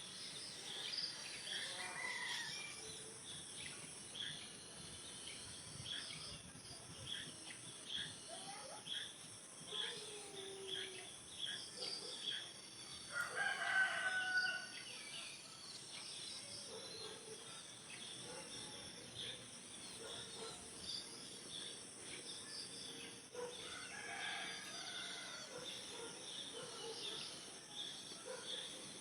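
A rooster crows once, about halfway through, over a steady high insect drone and scattered bird chirps.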